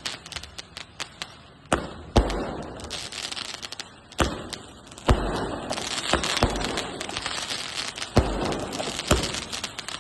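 A 120-shot skyshot aerial firework cake firing: a string of sharp bangs, a second or so apart, each followed by a spreading crackle, with a run of small crackling pops in the first two seconds.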